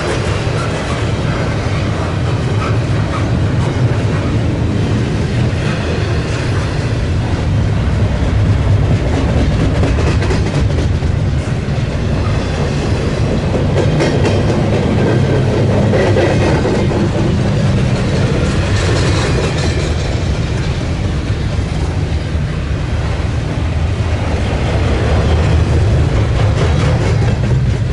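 Double-stack intermodal train rolling past: a steady rumble of freight cars with the clickety-clack of wheels over the rail joints.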